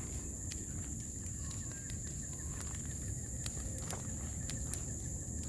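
Bonfire burning: scattered sharp snaps and pops from the fire over a low rumble, with a constant high-pitched hiss underneath.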